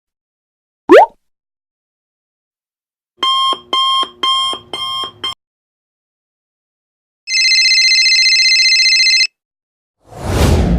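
A run of separate editing sound effects with silence between them: a very short rising whistle, then a quick series of four or five electronic beeps, then a steady electronic alarm ring lasting about two seconds, and a swelling whoosh starting near the end.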